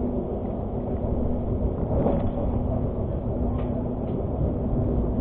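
Argo Parahyangan passenger train running, heard from inside the carriage: a steady low rumble with a faint hum and a few light clicks.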